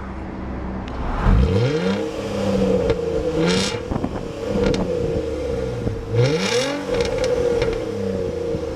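The 2005 Nissan Altima SE-R's 3.5-litre V6 being revved several times, its pitch climbing and dropping back with each blip of the throttle.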